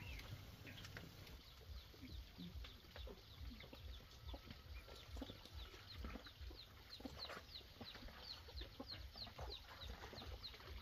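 Faint bird calls: a run of short, high, falling chirps that grows steadier a few seconds in, about three a second.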